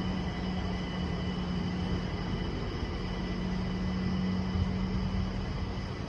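Steady mechanical hum of a train at a standstill: a constant low drone with faint, even high whines over it.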